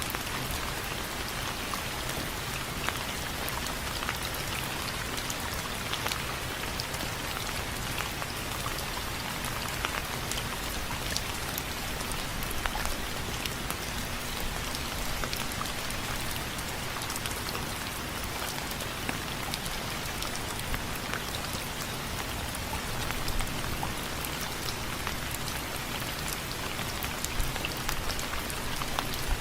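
Steady rain falling on window frames, an even hiss with many individual drops ticking sharply against the frame.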